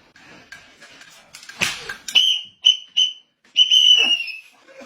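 A high whistle: three short toots and then a longer one, falling slightly at the end. A sharp noisy burst comes about a second and a half in, just before them.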